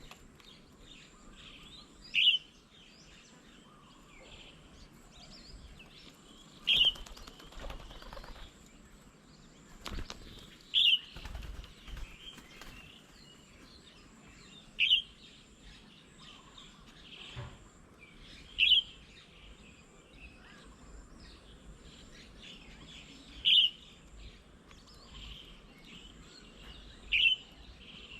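A bird repeating one short, sharp call roughly every four seconds, with softer chirping from other birds behind it.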